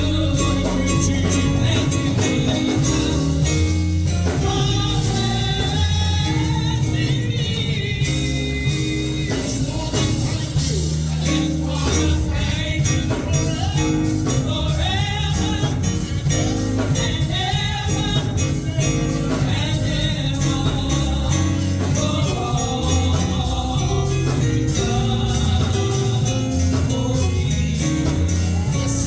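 Live gospel music: voices singing over a band with bass and drums.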